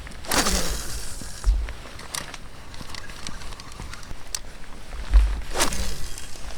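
Oars of an inflatable rowing boat sweeping through the water: two slow strokes, about a second in and near the end, each a falling swish, with drips and small knocks between them.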